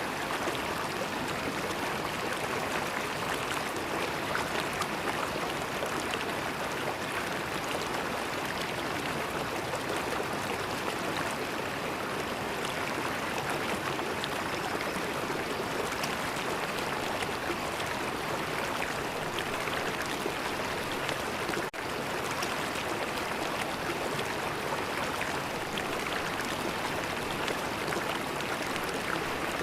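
River water flowing steadily, a continuous rushing and gurgling, with a momentary drop in level about three-quarters of the way through.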